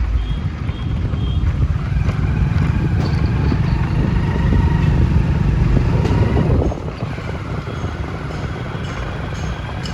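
Road traffic and vehicle noise heard on the move, with a heavy low rumble that drops off abruptly about two-thirds of the way through, leaving lighter steady road noise.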